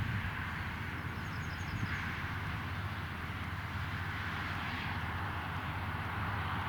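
Valtra tractor's diesel engine running steadily while driving a Claas Quadrant 2200 square baler at work, the engine's low hum mixed with the baler's machinery noise. A few faint high chirps sound between one and two seconds in.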